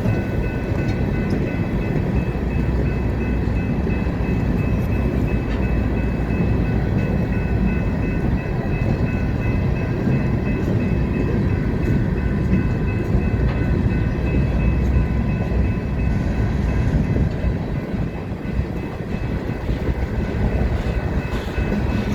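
Freight cars of a manifest train rolling past, a steady rumble of wheels on rail with a faint, steady high-pitched ring over it.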